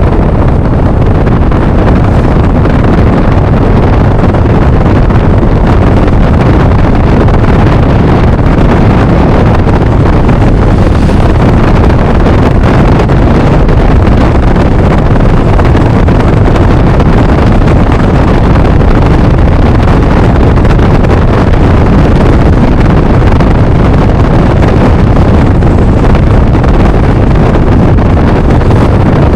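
Loud, steady wind rush buffeting the microphone of a motor scooter rider at road speed, with the running of the scooter and road beneath it.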